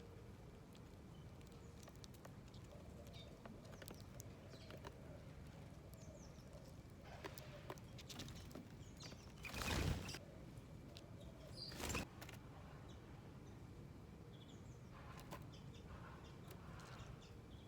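Small wild birds at a garden feeder, chirping faintly and now and then, over a steady low background hum. Two louder rushes of noise, each about half a second long, come about ten and twelve seconds in.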